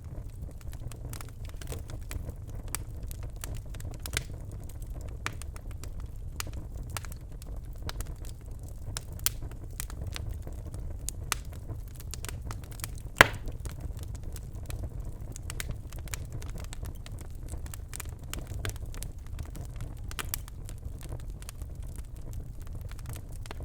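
Birch logs burning in a fireplace, crackling with frequent small pops over a low steady rumble of the flames; one louder pop about halfway through.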